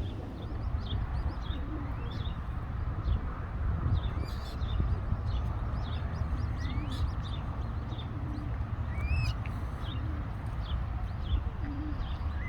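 Small birds chirping and calling, short high notes scattered throughout with a few rising whistled calls, over a steady low rumble.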